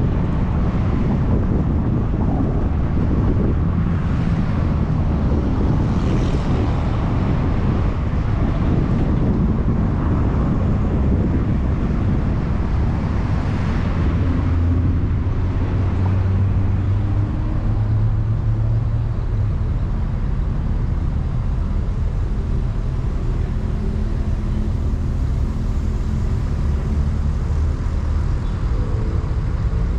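A car driving on the road: steady engine hum and road noise, the low engine tone shifting in pitch now and then.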